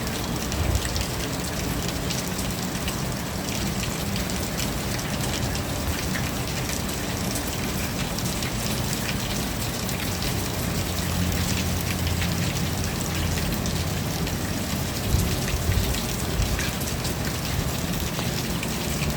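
Steady rain with many individual drops pattering on a surface, over a low rumble.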